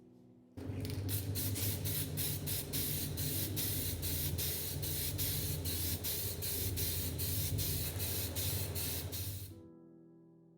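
Paint being sprayed: a loud, steady hiss over a low hum, pulsing evenly about two or three times a second. It starts about half a second in and stops about a second before the end.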